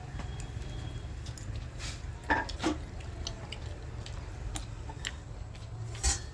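Scattered light taps and clinks of plates, utensils and food being handled while eating, over a steady low hum. The loudest knocks come about two seconds in, again shortly after, and near the end.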